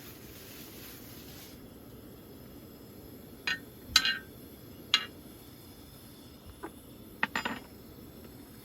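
A handful of short, light clinks and knocks of small hard objects being handled, starting about three and a half seconds in and spread over the next four seconds, over a steady low background hum.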